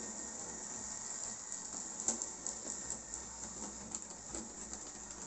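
Tri-ang 00-scale Jinty tank locomotive model running with a short goods train: a steady high-pitched whirr with irregular light clicking that gets busier about two seconds in.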